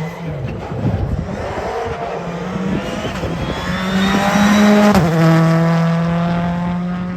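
Rally car at speed passing close by: the engine note grows louder and higher as it approaches, drops sharply in pitch as it goes past about five seconds in, then fades away.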